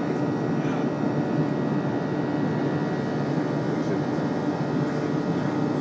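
Steady cabin noise of a Boeing 737 airliner in flight: a constant rush of engines and airflow, strongest in the low range, with a faint steady whine on top.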